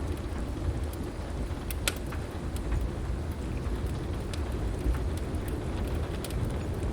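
Heavy rain with a steady low rumble underneath, and a wood fire crackling in scattered sharp pops, the loudest about two seconds in.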